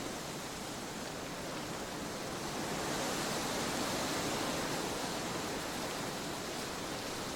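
Trade winds blowing steadily, a broad rushing noise that gusts up a little about three seconds in and then eases back.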